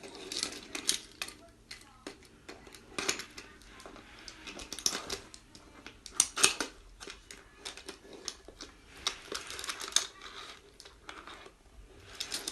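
Toy train and track pieces clicking and clattering irregularly as they are handled.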